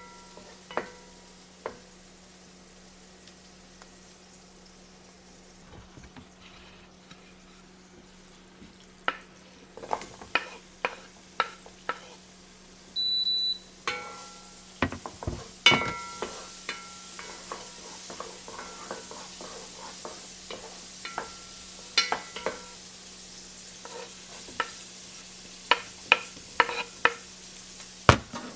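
Food frying in a pan and being stirred, with a utensil clicking and knocking against the pan again and again. A short electronic beep sounds about halfway through. The sizzling hiss gets louder in the second half.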